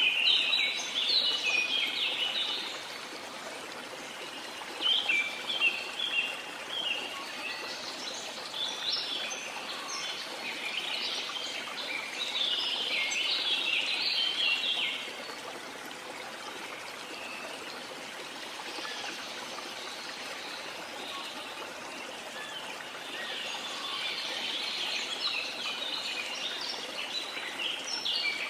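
A waterfall's steady rush of falling water, with songbirds chirping in rapid bouts over it: at the start, around five seconds in, through the middle, and again near the end.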